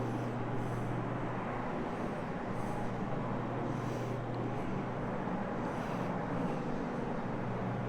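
Carpet-cleaning floor machine running steadily, its motor humming as it drives a hog's hair pad across the carpet, with a faint swishing that comes and goes.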